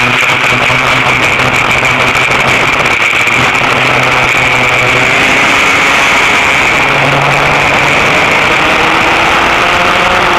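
Vintage dual-rear-engine go-kart's small engines running loud and steady, the pitch shifting slightly up and down.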